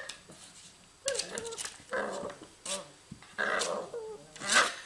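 Puppy making a run of short growls and whines, about five brief calls in quick succession.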